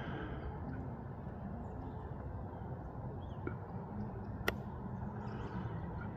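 Twin 70 mm electric ducted fans of an RC jet heard faintly at low throttle on landing approach with flaps out, a steady low rush. One sharp click about four and a half seconds in.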